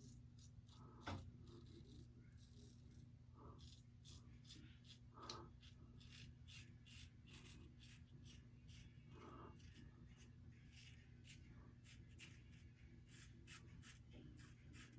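Faint short scraping strokes of a double-edge safety razor cutting stubble, a few strokes a second in irregular runs, over a faint steady low hum.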